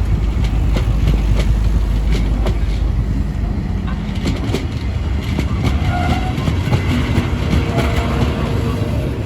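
A train running through the station with a heavy rumble, its wheels clicking over rail joints. Faint wheel squeal comes in about two thirds of the way through.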